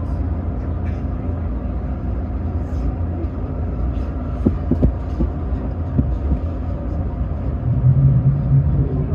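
Steady low rumble of a commuter electric train heard from on board, with a few short knocks about halfway through and a brief low hum near the end.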